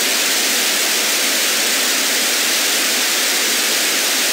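Loud, steady static hiss like white noise, cutting in abruptly out of silence with an unvarying level.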